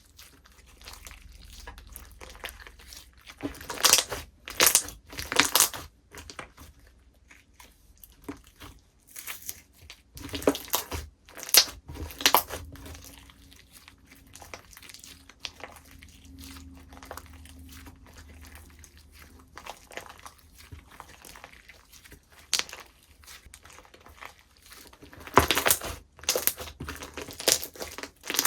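Slime being squeezed, stretched and pressed by hand, giving bursts of crackling and popping with quieter crackle between them.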